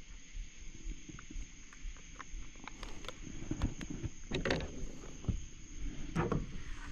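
Small clicks, knocks and rustles of fishing gear being handled aboard a kayak while a rod is baited up, with louder scuffs about four and a half and six seconds in.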